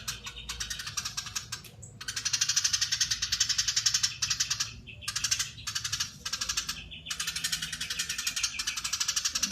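Eurasian tree sparrow giving long, dense, very fast chattering calls, broken by a few brief pauses.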